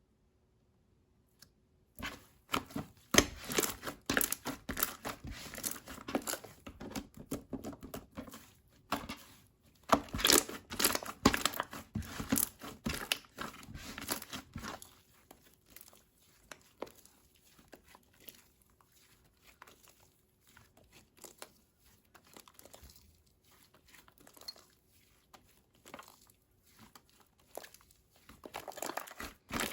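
Slime being squeezed, poked and stretched by hand, making dense crackling and popping clicks. It starts about two seconds in, is loudest in the first half, turns softer and sparser, then builds again near the end.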